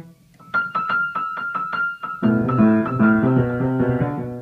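Piano played by a child: after a brief pause, one high note is struck quickly over and over, about seven times a second, then lower notes follow in a busier run. It is played as the answer to where the bird is, a motif standing for the bird in his musical story.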